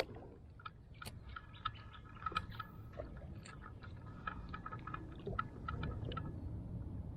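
Irregular light clicks and ticks from fishing tackle being handled in a kayak, over a low steady rumble; the clicks stop about six seconds in.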